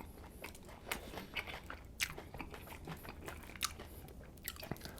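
A person chewing a mouthful of Subway sandwich close to the microphone: soft, irregular wet chewing with a few sharp little clicks and crunches.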